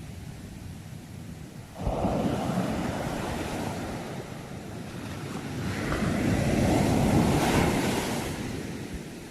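Sea waves breaking: one comes in suddenly about two seconds in and slowly washes out, then a second swells to a louder peak and dies away near the end.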